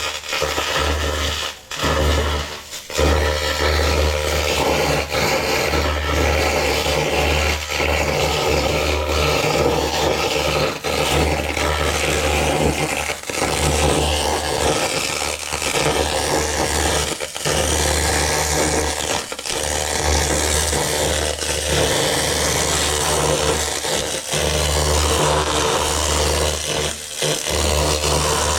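Continuous laser cleaning machine stripping the surface of a steel truck chassis: a steady scraping hiss over a low hum, cutting out briefly a few times as the beam stops.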